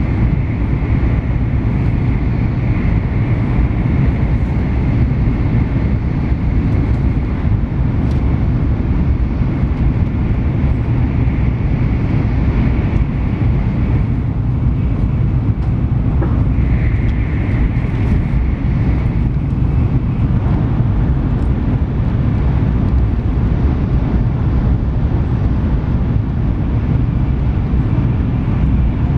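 Steady low running rumble heard inside the passenger cabin of an N700S Shinkansen travelling at speed, with a faint high whine above it that grows stronger for a few seconds a little past halfway.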